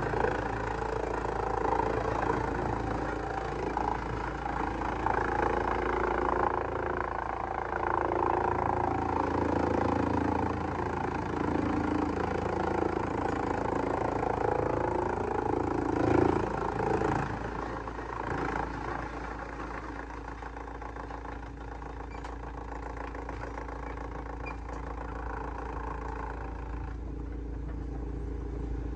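Heavy-duty wood shredder running and grinding wood, a dense, fluctuating mechanical noise that is louder and busier for the first half. After a surge about 16 seconds in, it drops back to a quieter, steadier running sound.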